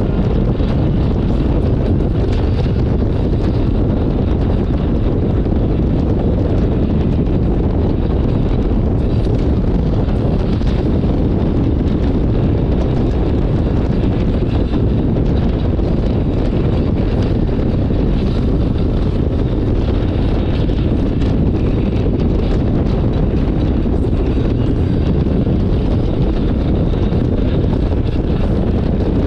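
Steady wind rushing over the microphone of a moving motorcycle, with road and engine noise beneath.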